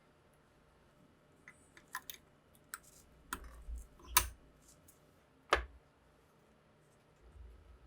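A string of sharp clicks and knocks from hard parts being handled, growing louder, with the two loudest clicks about four and five and a half seconds in.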